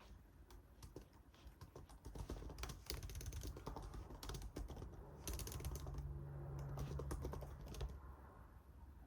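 Typing on a computer keyboard: quick runs of key clicks that start about two seconds in and stop near the end.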